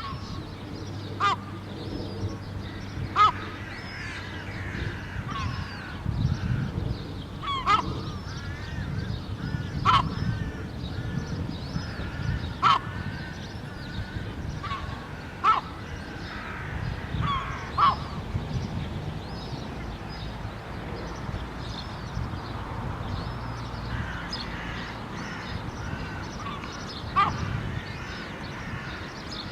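Gull calling: about eight short, sharp calls a few seconds apart, with fainter, wavering cries in between, over a steady low rumble.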